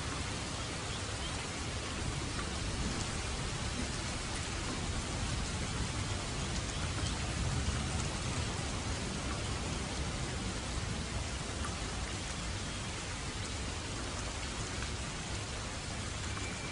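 Steady rain falling: an even, continuous hiss of rain with a stronger low rumble beneath it.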